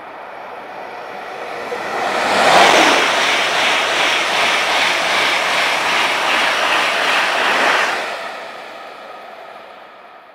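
ICE high-speed train passing close by at speed: a rushing noise builds quickly, stays loud for about five seconds as the cars sweep past, then fades away.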